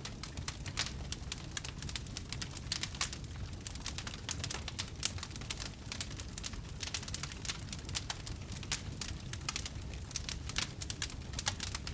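Wood campfire burning, with many irregular sharp crackles and pops over a steady low rumble of the flames.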